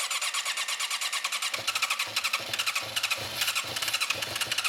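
A motorcycle's electric starter cranking the engine over, a fast, even chatter with a whirring squeal. The engine turns over without settling into a run.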